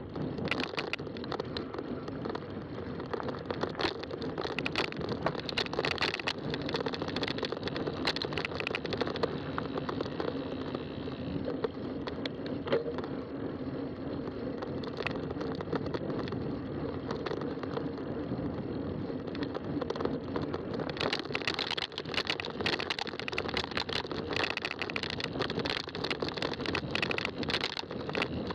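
Fat-tire bicycle riding along a trail: a steady drone of tire noise with frequent rattles and clicks, the rattling busier about two-thirds of the way in.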